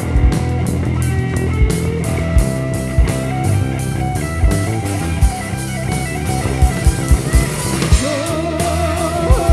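Live rock band playing a psychedelic rock song: guitars over a sustained bass line, with drum-kit kick beats.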